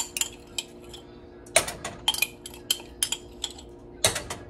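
Metal spoon clinking while stirring, a few scattered clicks and then a regular run of about three sharp clicks a second from about a second and a half in, over a steady low hum.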